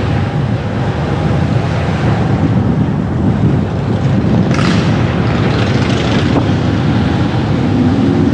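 Car driving along a city street: a steady low rumble of road and engine noise with wind. A rushing hiss swells about halfway through and lasts over a second.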